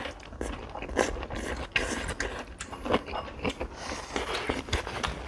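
Close-miked eating sounds: chewing, with irregular soft wet mouth clicks a few times a second.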